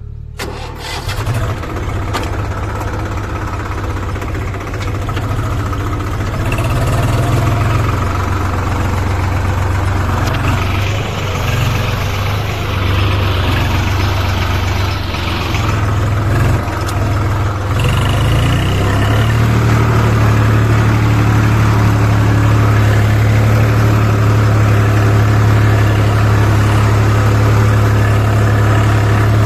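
Diesel engine running, its load and speed changing, then settling into a steady, slightly louder run about two-thirds of the way in.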